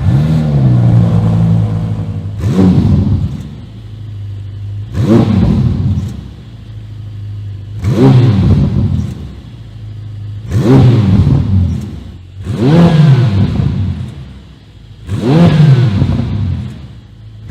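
Ferrari F8 Spider's 3.9-litre V8 blipped from idle about seven times, roughly every two and a half seconds. Each rev rises quickly and falls back to a steady idle.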